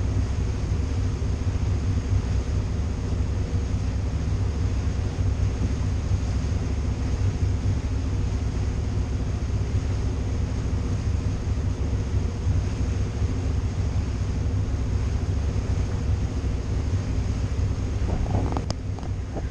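The boat's twin engines running steadily at cruising speed under way: a constant low drone with a steady hum in it. There is a single short knock near the end.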